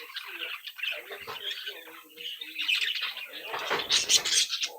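Budgerigars chattering and warbling together in a steady stream of quick chirps, with a louder, noisier flurry about three and a half seconds in.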